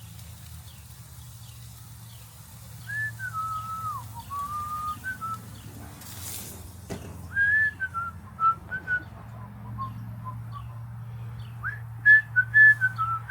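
A person whistling a tune in clear single notes, in three phrases: the first about three seconds in, the second in the middle, the third and loudest near the end. A low steady hum runs underneath.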